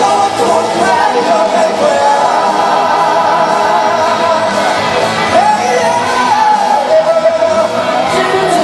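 Live stage musical performance: a sung melody with long held, wavering notes over loud backing music, heard with the echo of a large hall.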